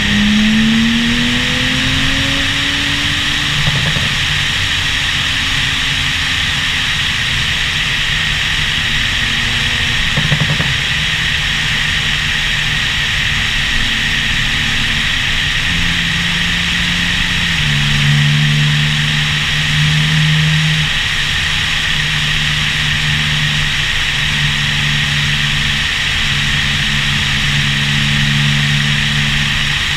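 Porsche 911 Turbo S's turbocharged flat-six engine heard over heavy steady wind noise on a roof-mounted camera's microphone as the car drives. The engine note rises as it accelerates in the first few seconds. Steadier low engine tones come in from about halfway through.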